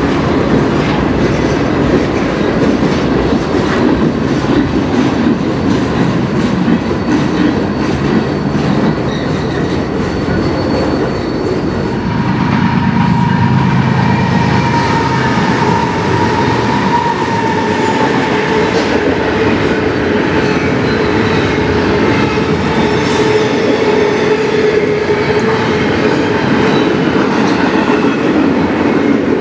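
CN train rolling past close by with a steady loud rumble and wheels clacking over rail joints. From about twelve seconds in, a deeper rumble and a steady high whining tone join in.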